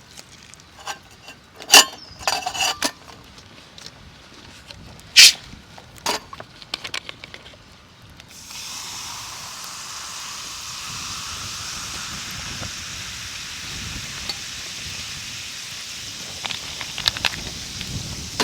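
Camp cookware clinking and knocking a few times, then a steady hiss that starts suddenly about eight seconds in and holds.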